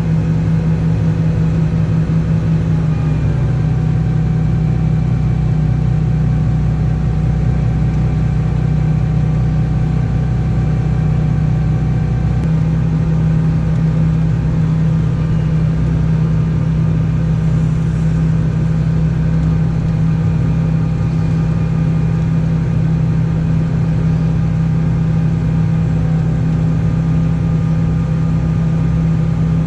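Diesel engine of harvest machinery running at a steady speed: a continuous low drone whose pitch shifts slightly about three seconds in and again about twelve seconds in.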